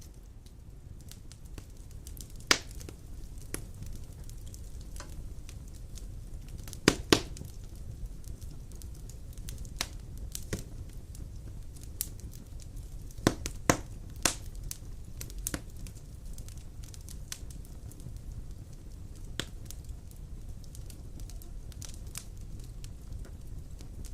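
Wood fire burning in a stone fireplace: a steady low rumble with irregular sharp crackles and pops, a few louder snaps about a third and halfway through.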